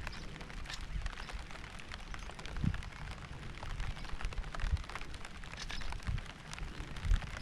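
Rain falling, many separate drops heard as sharp ticks over an even hiss, with a low rumble underneath that swells briefly a few times.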